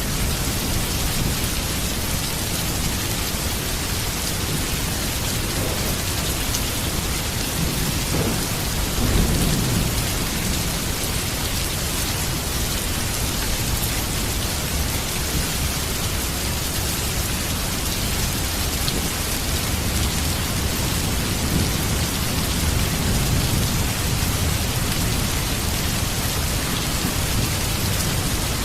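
Heavy rain falling steadily, with thunder rumbling low beneath it, loudest about nine seconds in and again swelling near the end.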